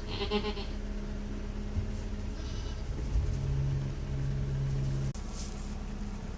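Baby goats bleating: a short high-pitched bleat right at the start and another about two and a half seconds in. A low steady hum comes in about three seconds in and cuts off suddenly after two seconds.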